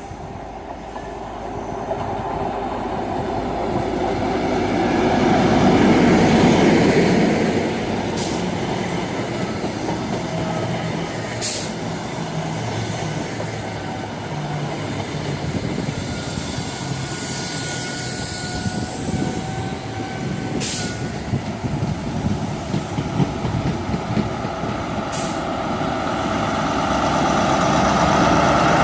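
A train moving through a station. Its rumble swells to a peak about six seconds in, then runs on steadily with a few faint squealing tones and several sharp clicks, and grows louder again near the end.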